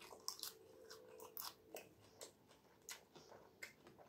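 Faint close-up chewing: a string of short, wet mouth clicks and smacks from a person eating.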